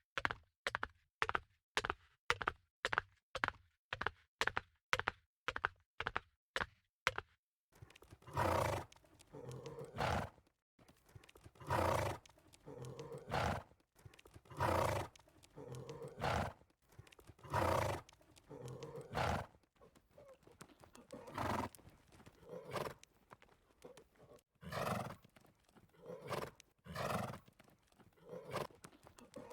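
Horse hooves clip-clopping at a steady pace, about two strikes a second. After about seven seconds this gives way to a run of louder, longer horse sounds, roughly one every second and a half, taken by the tagger for neighing.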